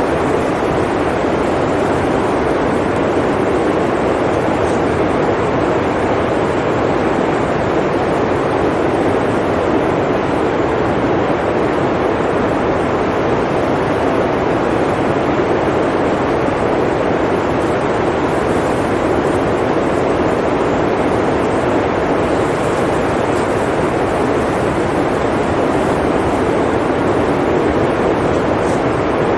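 Blizzard wind blowing steadily: an even rushing noise with no gusts or breaks.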